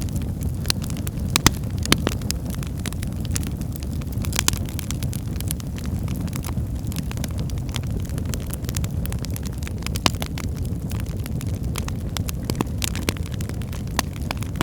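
Wood fire burning in a fireplace: a steady low rumble of flames with irregular crackles and pops from the burning logs, a few sharper pops standing out.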